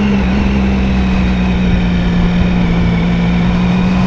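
Triumph Sprint ST 1050's three-cylinder engine running at a steady cruising speed while riding, its note holding one even pitch over a rush of wind and road noise.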